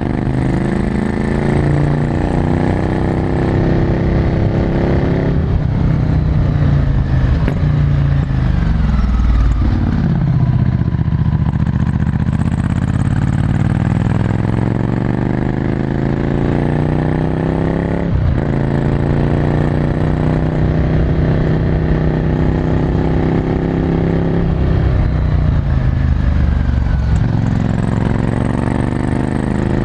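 Ducati Scrambler Desert Sled's 803 cc air-cooled L-twin through a full Termignoni exhaust, ridden under way: the engine note climbs with the revs, drops sharply at gear changes about five and eighteen seconds in, and falls away off the throttle around eight to ten seconds in before pulling up again.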